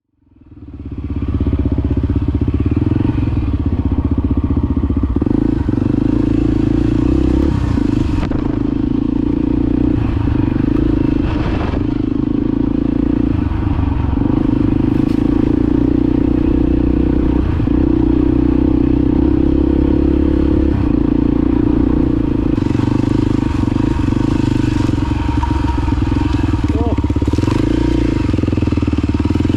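Honda XR250 Baja single-cylinder four-stroke engine running at a steady pace under way. It fades in over the first second.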